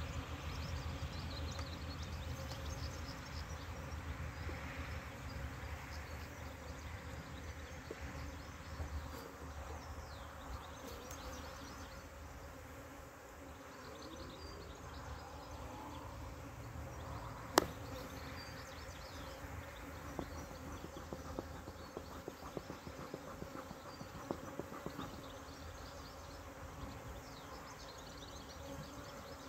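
Honeybees buzzing in flight, a steady hum throughout. A single sharp knock sounds about seventeen seconds in, with a few lighter taps later.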